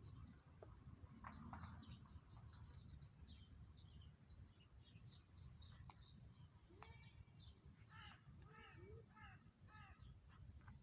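Faint chirping of small birds, with a larger bird giving a run of about five repeated, falling calls over the second half.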